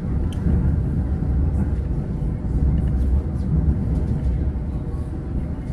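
Passenger train heard from on board: a steady low rumble with a few faint clicks.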